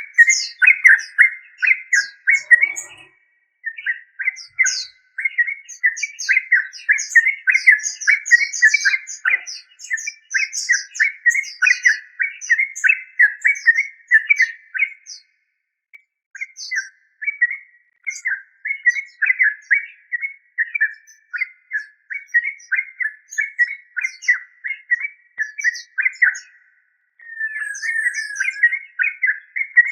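Yellow-vented bulbul singing: long runs of rapid, bubbly chirping phrases, broken by short pauses about 3, 15 and 27 seconds in.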